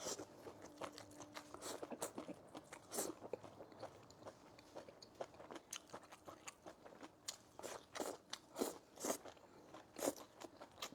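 A person chewing food close to the microphone, with irregular wet crunches and bites.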